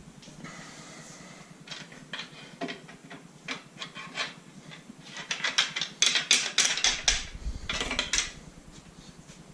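Small metal engine parts being handled and set down on a workbench: a string of light metallic clinks and clatters, thickest from about five to seven seconds in.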